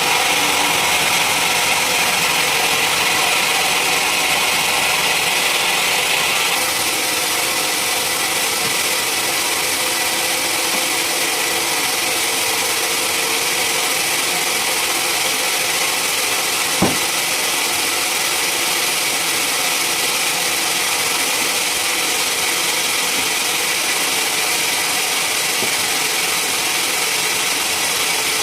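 Sawmill machinery running steadily at a constant pitch. Its bright hiss eases off about six seconds in, and a single sharp click comes about seventeen seconds in.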